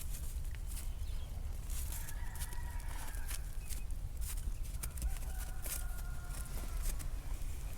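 A rooster crowing twice, faint, each crow a held call of about a second, the second about five seconds in. Scattered light clicks come through between the crows.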